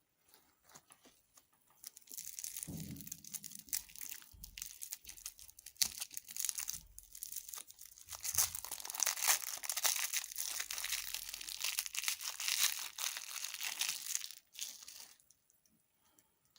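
Crinkly candy wrapper being handled and torn open, a dense crackling rustle that starts about two seconds in and stops suddenly near the end, with a few soft thumps early on.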